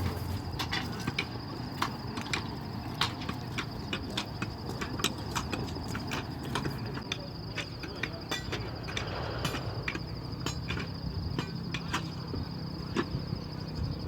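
An insect trilling steadily at a high pitch, with scattered sharp clicks and a low rumble beneath.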